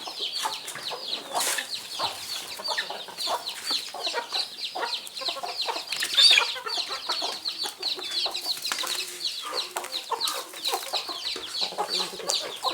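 A flock of kienyeji (indigenous Kenyan) chickens calling at feeding time: many short, high peeping calls that slide down in pitch, overlapping densely, mixed with lower clucks.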